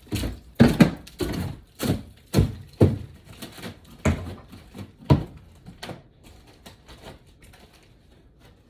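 Irregular knocks and thuds on wood, about two a second at first, fading and thinning out after about six seconds.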